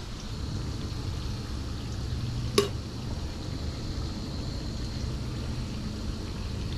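Fish fillets frying in hot oil, a steady sizzle over a low hum, with one sharp click about two and a half seconds in.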